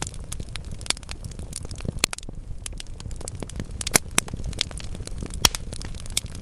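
Wood fire crackling in a fireplace: burning logs giving off frequent irregular pops and snaps over a steady low rumble of flame, with a few louder pops.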